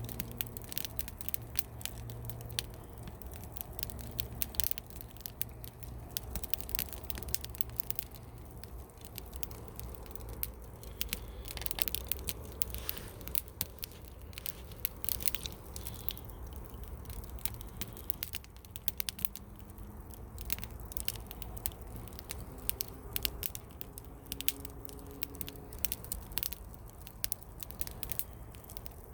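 Wood campfire crackling, with many sharp snaps and pops coming in quick, irregular succession over a low, steady rumble.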